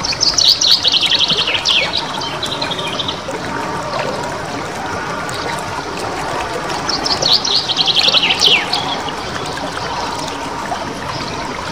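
A small songbird singing fast, high rolling trills broken by sharp down-sweeping notes: a 'nembak ngerol' song. It comes in two bouts of about three seconds each, several seconds apart, over a steady trickle of running water.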